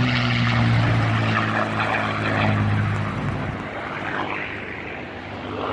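P-51 Mustang's V-12 engine and propeller droning as the fighter flies past, loudest at first, its pitch dropping slightly as it goes away and fading after about three seconds.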